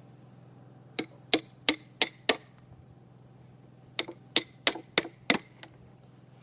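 Wood chisel being struck, a run of five sharp taps about three a second, then after a short pause another run of about six, chopping across the end of a notch cut into a table leg.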